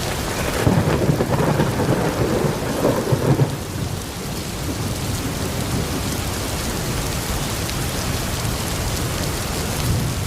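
Steady rain with a rumble of thunder that swells about a second in and dies away by about three and a half seconds.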